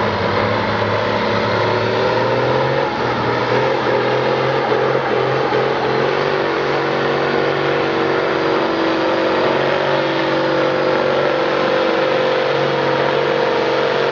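Farm tractor's engine running hard at high revs under heavy load. Its pitch shifts about three seconds in, then holds steady.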